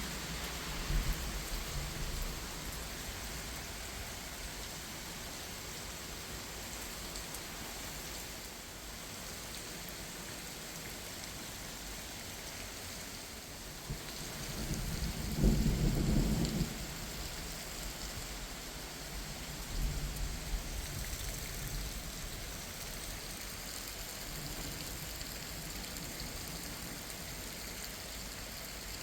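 Steady rain falling during a thunderstorm, with deep thunder rumbles: a short one about a second in, the loudest a little past the middle, and a smaller one about two-thirds through.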